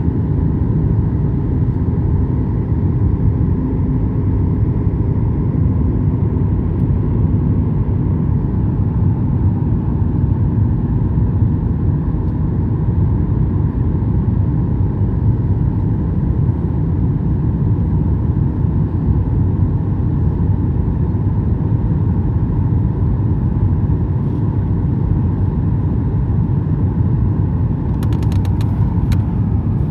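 Steady low roar inside an airliner cabin, the engines and airflow droning without a break. A quick run of short rattles or clicks comes near the end.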